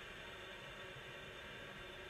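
Steady faint hiss and low hum of room tone, with no distinct sounds.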